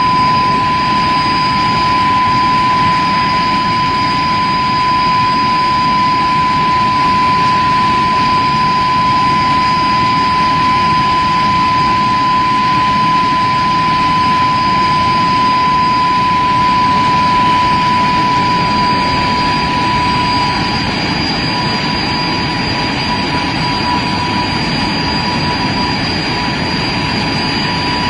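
de Havilland Vampire jet engine running steadily on a ground run, with a high, steady whine over a rush of jet noise. The overall level eases slightly about two-thirds of the way through.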